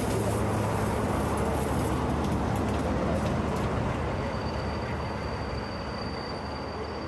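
Class 40 and Class 45 diesel locomotives running as the train draws in, a steady low engine drone that eases off over the last few seconds. A thin, high steady whine joins about halfway through.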